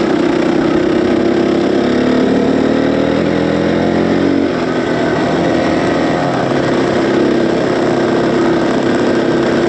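Dirt bike engine running while riding a trail, its pitch climbing steadily from about two seconds in, then dropping suddenly about halfway through and running on steadily, with wind and road noise throughout.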